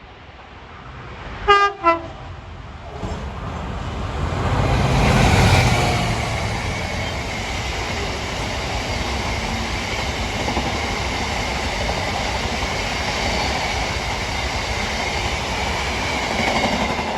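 A passing train sounds two short blasts on its horn, then goes by. Its running noise builds to a peak a few seconds later and carries on steadily.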